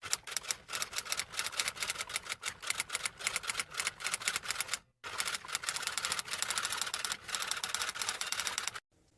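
Fast typing: a rapid, uneven run of key clicks that breaks off briefly about five seconds in, then starts again until near the end.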